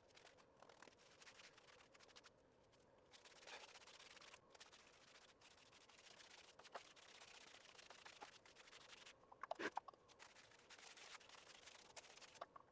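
Faint, intermittent brushing and scratching of a large paintbrush stroking primer onto a rough masonry basement wall, with a few light clicks, the loudest about three quarters of the way through.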